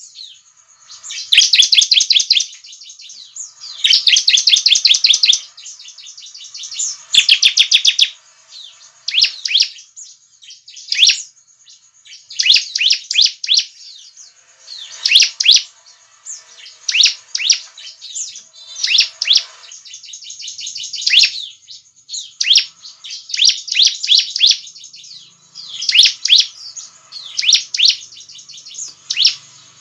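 Bar-winged prinia (ciblek) singing. Bursts of rapid, high chattering notes, each about a second long, come every second or two.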